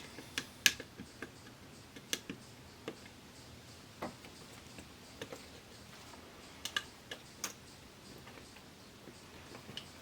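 Irregular light clicks and taps of tools and plastic parts being handled while the speakers are taken off the back of an LCD TV, the sharpest click a bit under a second in.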